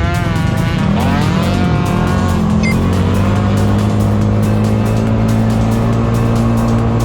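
Race-tuned scooter engine (a 237cc Yamaha Gryphus engine in a Cygnus) revving up and down a few times, then holding steady high revs for several seconds, over background music with a steady beat.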